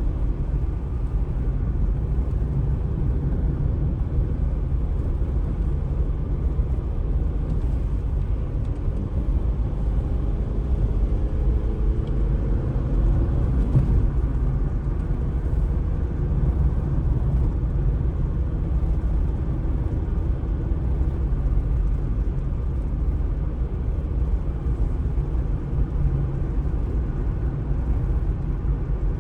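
Steady low rumble of street ambience, with a faint engine hum that rises and fades about halfway through, like a car passing.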